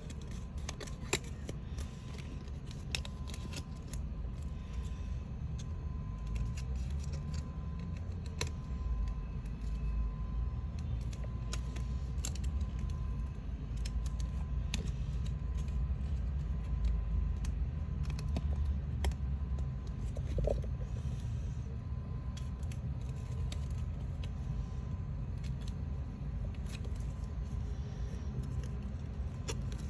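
Paper crafting sounds: light scattered clicks and rustles of paper being handled, cut and folded, over a steady low rumble.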